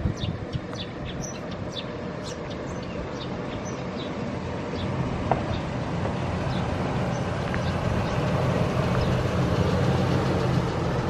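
A vehicle engine running steadily, growing slowly louder. Short high chirps sound in the first few seconds.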